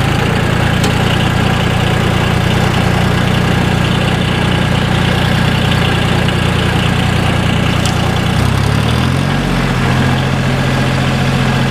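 John Deere 850 tractor's three-cylinder Yanmar diesel engine running steadily in first gear, high range. Its note changes about eight and a half seconds in.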